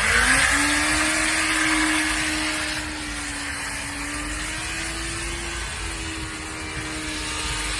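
Motorcycle engine held at a steady pitch as the bike is spun around, with a brief dip and recovery in the note near the end. A hiss rides over it, loudest in the first couple of seconds.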